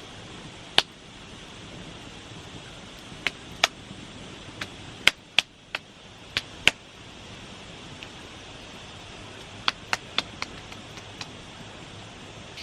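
A series of sharp, brief knocks, irregularly spaced and some in quick succession, with a cluster of four about ten seconds in, over a steady background hiss.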